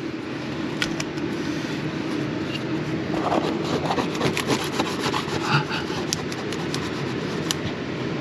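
Hand tool scraping and rubbing against wood, with scattered small clicks and ticks, as old silicone is cleared off a spot being patched with wood filler.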